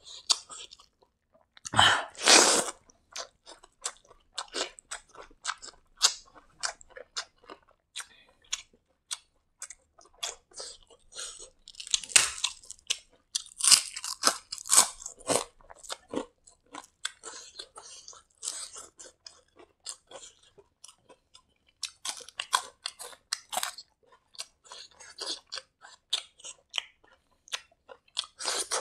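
Close-miked chewing and crunching of a hand-fed mouthful of fried rice, with wet mouth clicks and crackles throughout. The loudest crunches come about two seconds in and again around twelve to fifteen seconds in.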